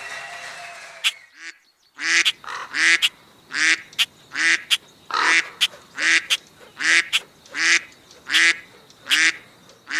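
The last of the music fades out, then a loud honking sounds over and over in a steady rhythm, about twelve honks a little under a second apart.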